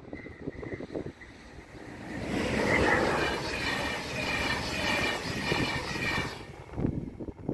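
Passenger train passing over a level crossing: the rush of wheels on the rails swells about two seconds in, holds loud, and dies away near the end as the last coach clears. One sharp knock follows. Under it, the crossing's electronic warning bell rings.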